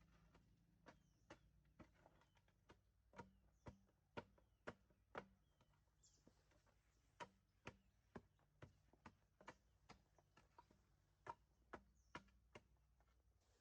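Faint, irregular knocks, about two a second, like tools striking wood, with a few short bird chirps over a low hum.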